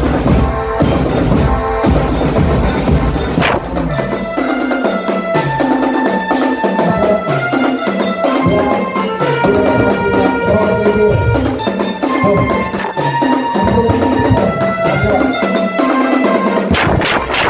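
Drum band playing: a steady run of drum strokes under a melody of pitched notes on mallet percussion such as glockenspiel.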